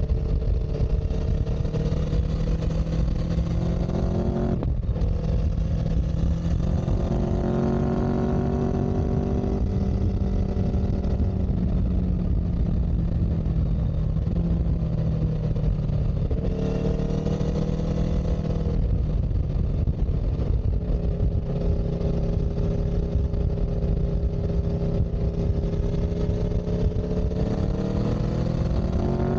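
A vehicle engine running under way, its pitch climbing slowly and then dropping suddenly, about five seconds in, again around the middle, and near the end, like gear changes while accelerating. A heavy low rumble runs underneath.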